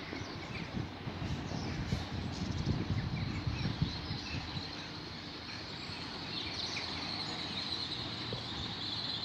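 GWR Class 802 Intercity Express train approaching along the curved track into the station, a low rumble with a thin, steady high squeal that sets in about three seconds in.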